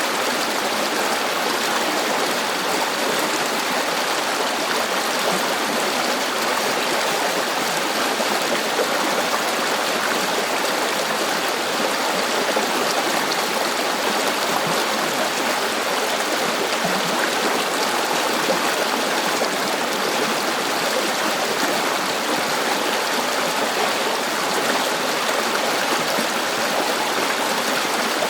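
River water flowing and babbling steadily over rocks, a continuous even rush with no breaks.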